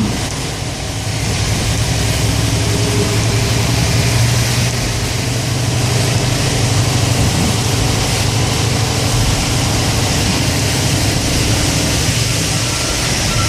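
Road noise inside a car driving in the rain: a steady low engine hum under an even hiss of tyres on wet pavement.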